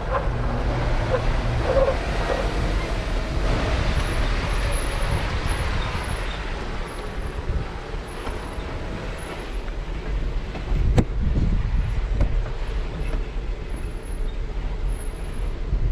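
Off-road vehicle crawling slowly over a rock trail: steady low engine rumble with tyre and wind noise, and one sharp knock about eleven seconds in.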